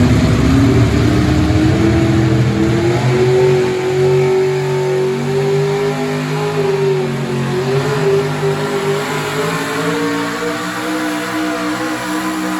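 Gas truck engine at a truck pull revving up over the first few seconds, then holding at high revs under full load as it drags the weight sled, growing slightly quieter toward the end.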